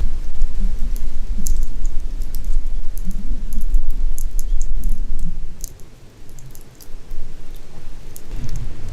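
Wind buffeting the microphone in a heavy, uneven low rumble, with sparse sharp crackles and pops from a wood campfire over it.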